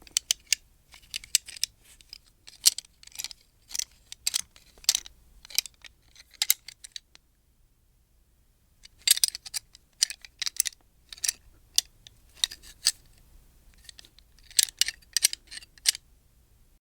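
Gun parts being handled: quick clusters of sharp metallic clicks and rattles, with a short pause about halfway through.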